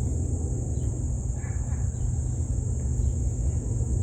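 Steady high-pitched chorus of insects such as crickets, one unbroken shrill tone, over a continuous low rumble.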